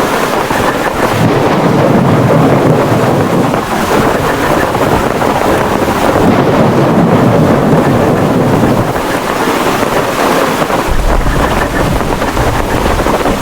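Heavy rainstorm with strong wind, gusts buffeting the microphone in a dense, loud roar of noise; a deep low rumble joins it about eleven seconds in.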